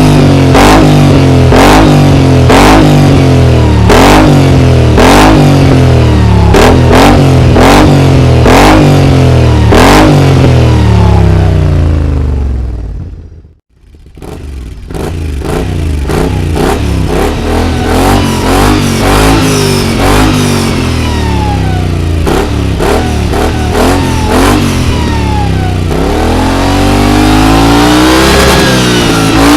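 Kymco AK 550 maxi-scooter's parallel-twin engine revved through a GPR aftermarket exhaust, in quick repeated blips about once a second. About halfway through the sound fades out briefly, then the revving resumes, with one longer rise and fall near the end.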